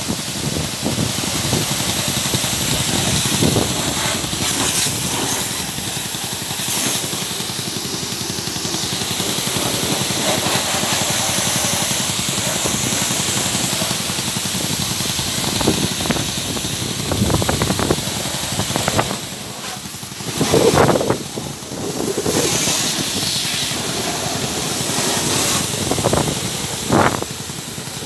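Water jet hissing steadily as it is sprayed over a running motorcycle, with the engine idling underneath: a wet test of the ignition after a corroded coil connector was cleaned and tightened, to see whether water still makes it stall.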